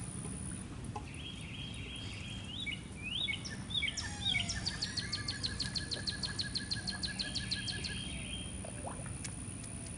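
Songbirds singing over a steady outdoor background: first a few whistled, swooping notes, then from about halfway in a rapid chattering run of notes, about seven a second, with a lower, faster trill running alongside for a few seconds.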